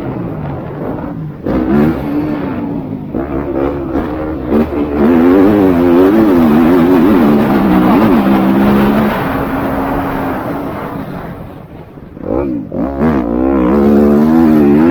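MX2 motocross bikes racing, their engines revving up and down in quick swings of throttle and gear changes. The sound fades as they move off about eleven seconds in, then grows loud again near the end as bikes come close.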